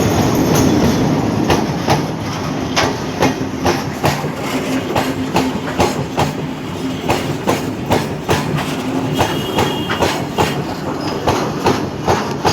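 Moving train: wheels clicking over rail joints in a steady clickety-clack, about two clicks a second, over a continuous rumble and low hum.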